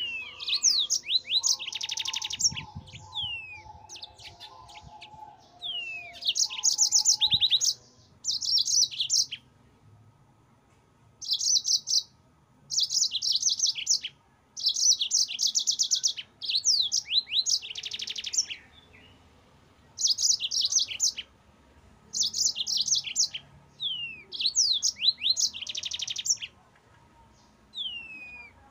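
Yellow-fronted canary (Mozambique canary) singing in a continuous run of phrases: fast high trills mixed with quick downward-slurred whistled notes, each phrase one to two seconds long with short pauses between.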